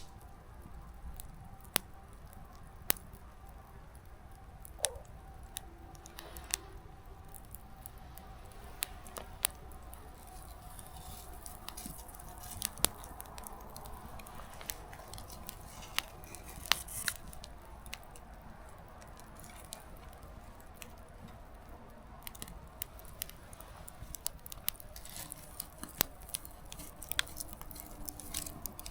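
Small wood fire crackling: irregular sharp pops of burning firewood over a low steady hiss, the pops coming more often in the last few seconds.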